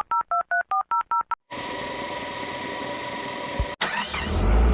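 Telephone keypad tones dialing a number: about ten quick two-note beeps, followed by a steady tone with hiss for about two seconds. After a click, an engine sound starts again near the end.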